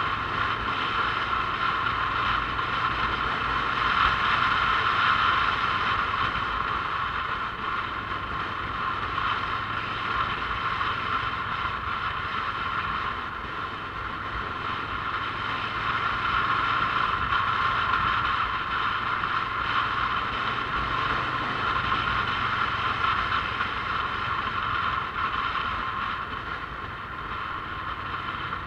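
Motorcycle running on the move: a steady mix of engine hum and road and wind noise, swelling and easing gently as the speed changes.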